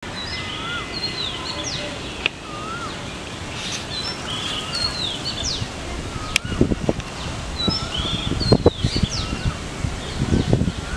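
Several birds calling and singing in repeated whistled, chirping phrases over steady outdoor background noise. Low muffled bursts come in during the second half.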